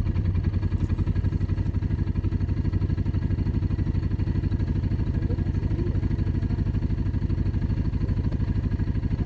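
Dirt bike engine running steadily at idle, with an even rapid pulse of about ten beats a second and no revving.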